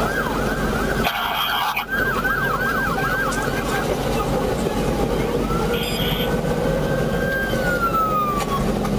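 Police car siren sounding over steady vehicle and road noise: a fast yelp for the first few seconds, with a brief break about a second in, then a slow wail that rises and falls near the end.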